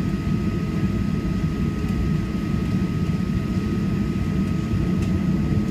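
Steady low rumble of a Boeing 737-800 heard inside the passenger cabin, with a thin steady whine above it.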